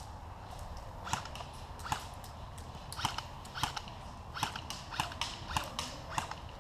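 Airsoft guns firing: about nine sharp cracks, single or in quick pairs, irregularly spaced from about a second in.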